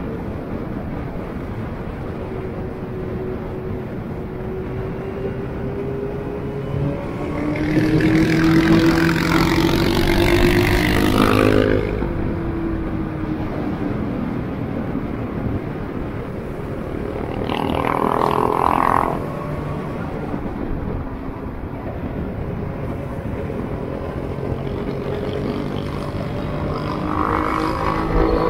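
Car engines running at speed, their pitch slowly rising and falling as they accelerate and ease off. A much louder surge of engine noise runs from about seven seconds in and cuts off suddenly near twelve seconds, with shorter swells around eighteen seconds and near the end.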